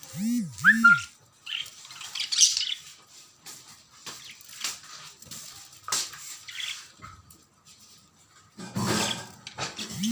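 Budgerigars chirping and chattering, with scattered short clicks throughout.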